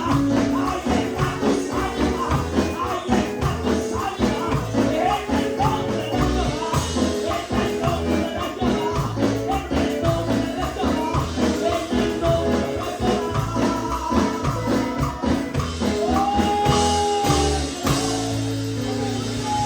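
Up-tempo Pentecostal worship chorus played by a live band with a steady, driving beat, a tambourine shaken along with it, and voices singing over it, one note held for about a second and a half near the end.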